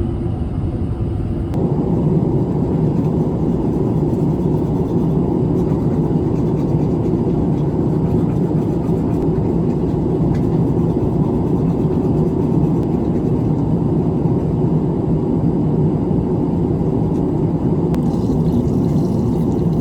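Steady, even rumble of an airliner cabin in flight, engines and airflow droning low, growing louder about a second and a half in and then holding.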